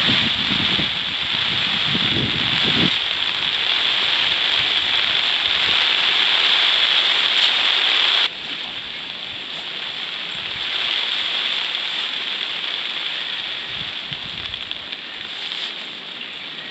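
Heavy tropical-storm rain pouring steadily, with strong wind buffeting the microphone in the first few seconds. The rain drops suddenly to a lower level about eight seconds in.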